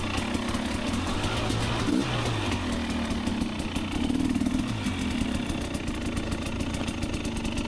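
Two-stroke dirt bike engine running at low revs, its pitch rising briefly about two seconds in and easing back down near five seconds.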